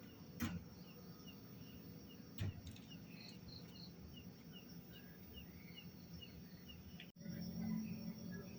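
Insect chirping steadily, short high chirps about three a second, with two sharp clicks. About seven seconds in the sound cuts out for an instant, and a low hum follows.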